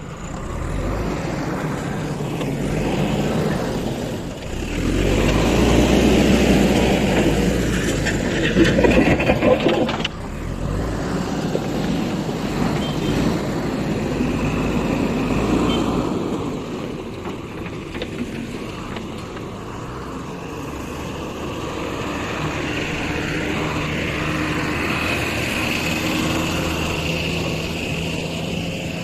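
Heavy diesel engine of construction machinery running. It grows louder for several seconds, drops off sharply about ten seconds in, then runs on more steadily.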